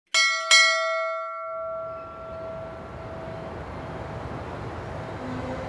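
A bell struck twice in quick succession, its tone ringing out and fading over a few seconds. A low, steady noise follows as the ringing dies away.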